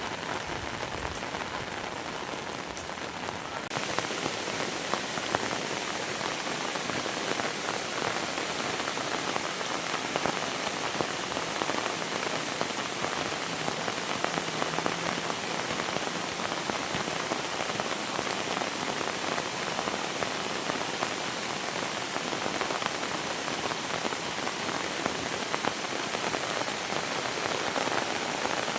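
Heavy rain falling steadily, a dense hiss of countless drops hitting surfaces; it grows a little louder and brighter about four seconds in.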